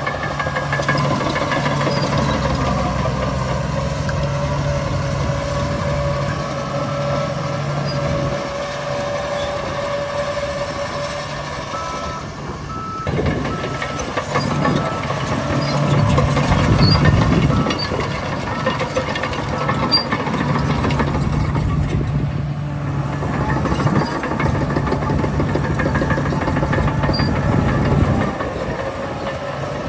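Heavy diesel engines of a bulldozer and dump truck running and working under load, with the level rising and falling. For several seconds in the middle a reversing alarm beeps roughly once a second.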